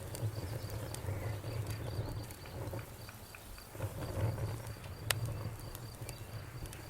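Campfire burning with a steady low rumble and scattered crackles, with one sharp pop about five seconds in. A faint, steady high pulsing tone runs underneath.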